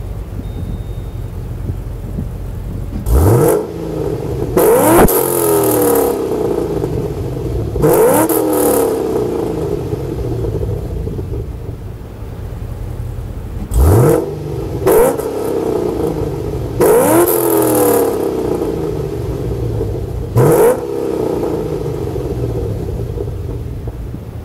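Chevrolet Caprice SS V8 through long-tube headers and an X-Force cat-back exhaust, idling with a steady rumble. It is blipped on the throttle about ten times, singly and in quick pairs; each rev rises sharply and drops straight back to idle.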